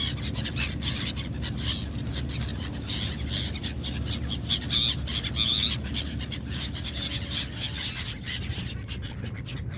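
A flock of seagulls squawking, many short overlapping calls that thin out in the last few seconds, over the steady low rumble of a boat engine.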